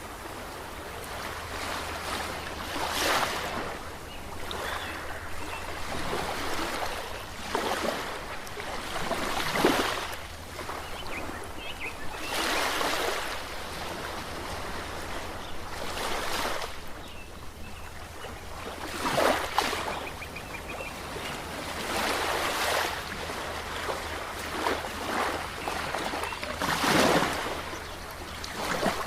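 Ocean waves breaking and washing in one after another, a fresh surge every two to four seconds over a steady wash of surf, with a constant low hum underneath.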